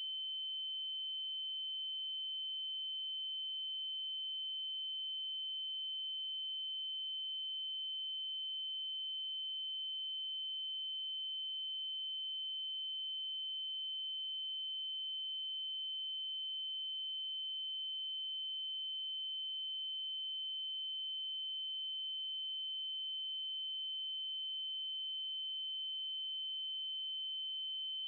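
Steady electronic 3072 Hz triangle-wave tone, one continuous high-pitched note held without change.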